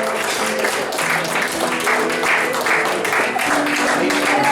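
Audience applauding over music that plays with steady, stepping notes.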